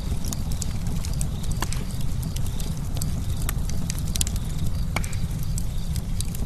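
Campfire burning with a steady low rumble of flame and frequent irregular sharp crackles and pops of burning wood.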